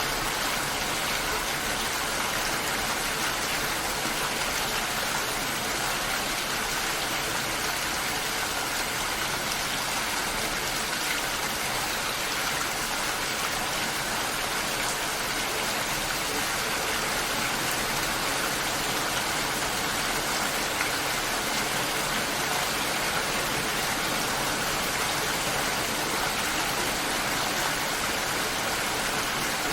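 Steady rainfall, a dense even hiss of drops with no single drops standing out.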